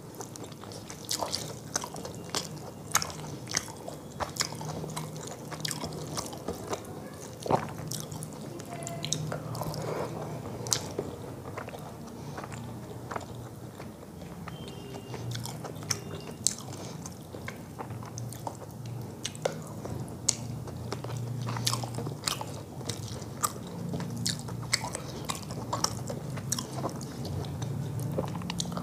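Close-miked chewing of rice and fish curry, with many sharp wet mouth clicks and lip smacks.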